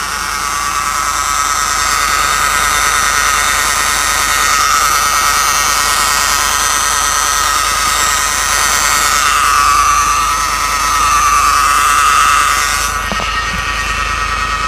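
Citroen C5 X7 2.2 HDi diesel making an unwanted noise: a steady high whine that wavers slightly in pitch over a loud hiss. The hiss thins out about 13 seconds in while the whine carries on.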